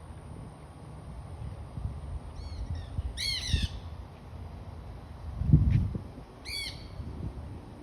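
Wild parrots giving harsh squawking calls: a short series about three seconds in and another burst near the end. A steady low rumble underneath, with a louder low thump-like surge just after the middle.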